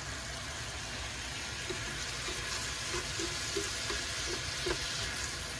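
A squid, pork and vegetable stir-fry sizzling steadily in a frying pan as it is stirred with long cooking chopsticks, with a few light knocks.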